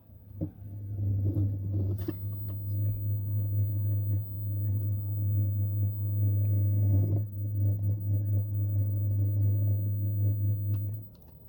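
Rotary buffer with a wool pad running steadily with a low hum, starting about half a second in and cutting off shortly before the end.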